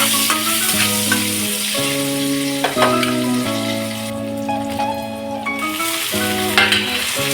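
Food sizzling as it fries in a pan, with a hissing crackle, under background music whose notes change every half second or so.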